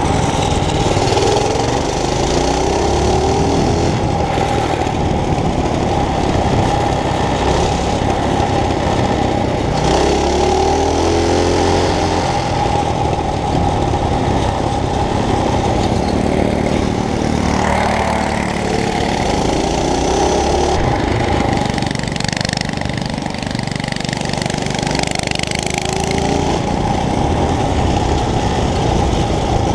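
Mini bike engine running hard while being ridden, its pitch rising and falling several times as the throttle is worked.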